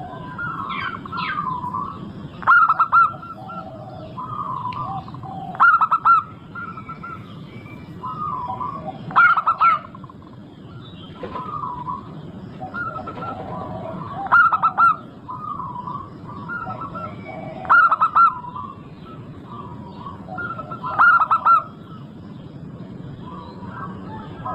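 Zebra dove (perkutut) cooing song, a lure call for other doves: rhythmic phrases of short cooing notes, with a louder phrase about every three seconds and softer notes between.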